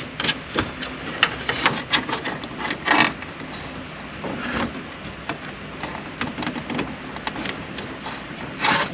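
Plastic dash trim and clips being handled, giving scattered clicks and knocks, with a longer louder rattle about three seconds in and another near the end.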